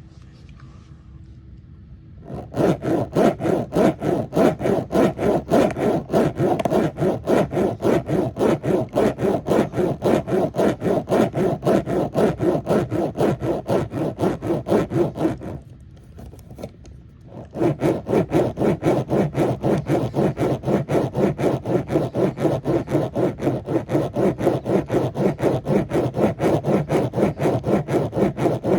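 Rhythmic back-and-forth rasping strokes, about three or four a second, with a break of about two seconds midway.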